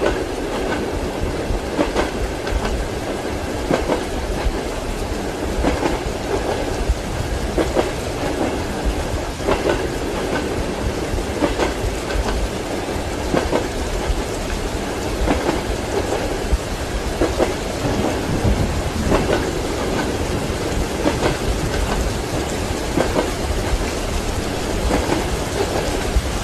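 Train wheels clacking over rail joints in pairs about every two seconds, over a steady low rumble of the moving carriage, with rain falling throughout.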